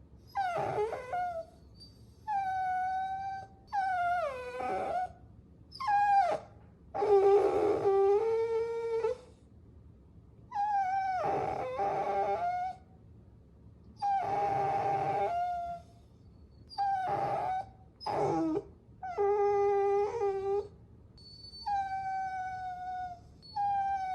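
Puppies whining in a string of about a dozen high, pitched cries of half a second to two seconds each, with short pauses between them. At times two voices whine at once.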